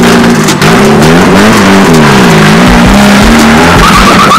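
Honda Civic's engine revved over and over as the car pulls away, its pitch rising and falling repeatedly. Low thumps come in past the middle, and a pulsing tone near the end.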